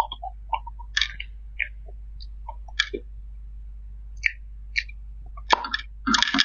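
Close-miked eating sounds: a person chewing with irregular wet mouth clicks and smacks, a few a second, and a denser cluster of smacks near the end. A faint low hum runs underneath.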